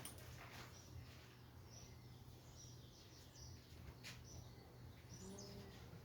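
Faint small-bird calls: short high chirps about once a second, with a few soft clicks. A lower-pitched call comes in near the end.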